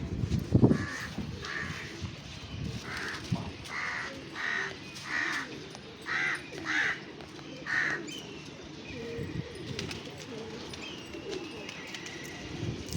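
Birds calling: a run of short, harsh calls, about ten of them in twos and threes, fading out after about eight seconds. A thump comes about half a second in.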